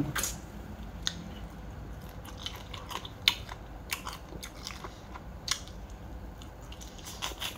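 Eating sounds: chewing and biting with scattered sharp clicks and crunches, the loudest a little after three seconds in.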